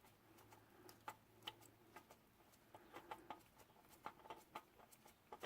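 Faint, irregular ticking, about three or four soft ticks a second: engine oil dripping into the drain pan after the oil filter has been unscrewed.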